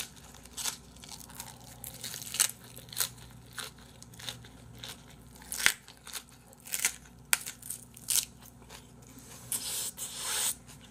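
Close-up chewing of a bossam wrap of boiled pork in a fresh napa cabbage leaf, with sharp crunches about once a second and a longer rustling chew near the end.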